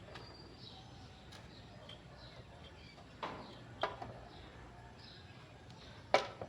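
A few sharp knocks or clicks, three of them, the last the loudest, over faint high chirping of birds.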